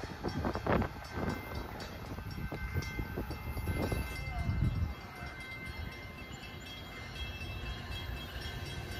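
Low rumble of an Amtrak passenger train running at a distance on the electrified line, with a faint steady whine over it and a few low thumps in the first few seconds.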